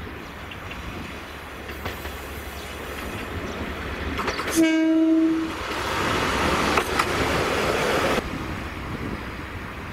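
Tarumi Railway single-car diesel railcar approaching and passing close by: a rumble that grows, one short horn blast just under five seconds in, then the loud rush of the car going past for about three seconds.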